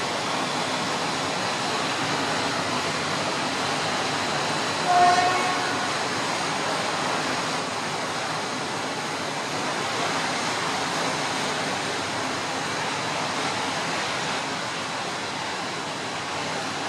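Steady rolling noise of a freight train's wagons passing, with one short train horn blast about five seconds in.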